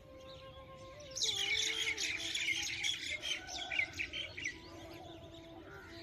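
Many small birds chirping together in a dense, busy chatter that starts about a second in and thins out after about four seconds.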